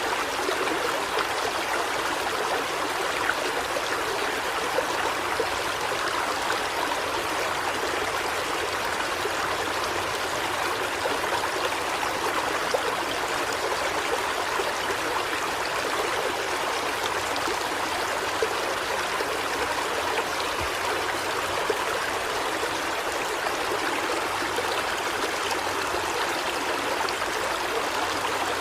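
River water flowing steadily over rocks, a constant rushing and trickling with no change.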